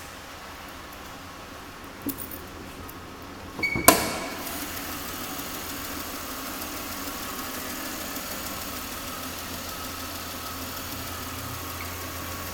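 A 2009 Chevrolet Impala's engine started about four seconds in, after a few light clicks, then idling steadily.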